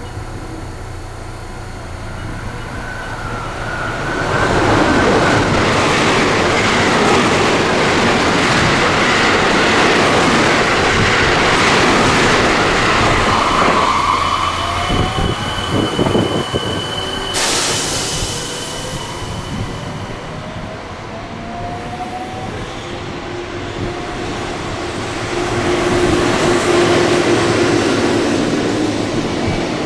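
JR West electric trains passing at speed, wheels rumbling and clattering on the rails from about four seconds in. A steady high squeal and a rising whine follow in the middle, and the rumble builds again near the end.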